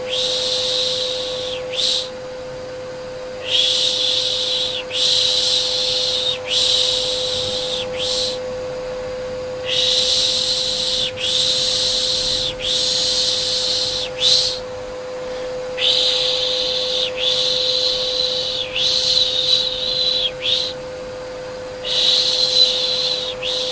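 A voice repeatedly shushing a baby, 'shhh', in hissy bursts of a second or two with short gaps. Under it runs the steady hum of a vacuum cleaner used as soothing white noise.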